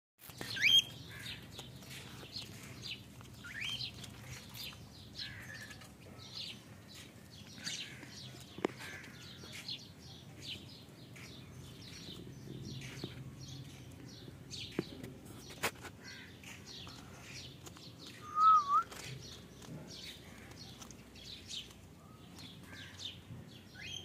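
Small birds chirping: many quick, high cheeps repeat throughout. A louder rising chirp comes about a second in, and a loud warbled call comes near two-thirds of the way through.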